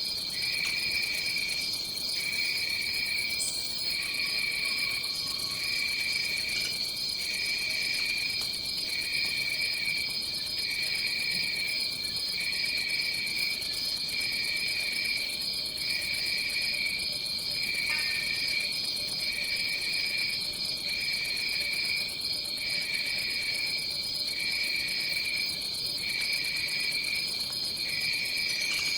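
Tropical rainforest insect chorus: a steady high shrill drone, with a lower trilling call that pulses on and off about every second and a half.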